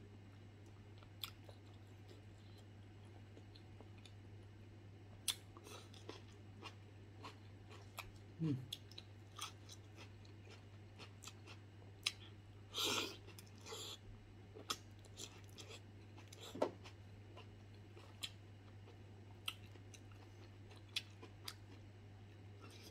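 Close mouth sounds of someone eating soft, gelatinous stewed beef-foot skin: faint wet chewing with irregular lip smacks and clicks, a little louder about halfway through. A steady low hum runs underneath.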